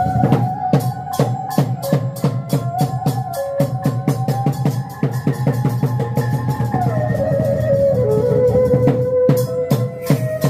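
Khmer chhay-yam ensemble music: drums beating a steady rhythm of about two to three strokes a second with cymbal-like clicks, under a sustained melody that steps up and down in pitch.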